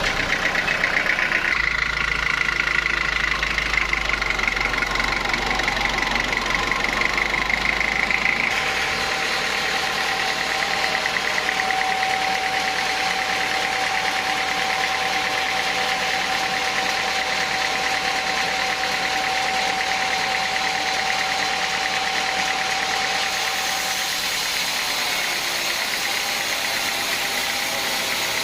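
Sawmill machinery running steadily, with a constant whine that changes pitch partway through and shifts abruptly a couple of times.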